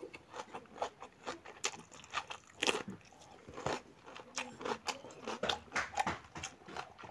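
Close-up chewing of pork curry and rice: wet mouth smacks and bites in an irregular run of short clicks.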